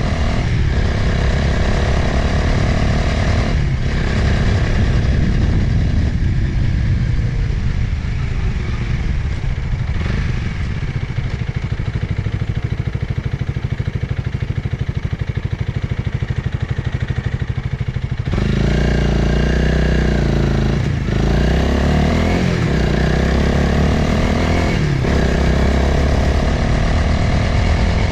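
Motorcycle engine running under way, with wind rushing past the rider's helmet. The engine note breaks and shifts pitch several times as it changes gear, and the low rumble grows heavier a little past halfway.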